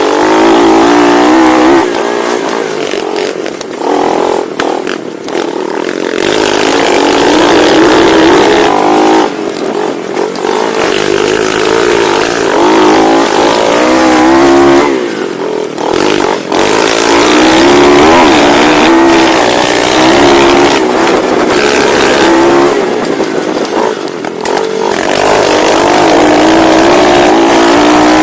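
Pit bike engine ridden hard in a race, the revs climbing under throttle and dropping away four times as the throttle is rolled off, then picking up again.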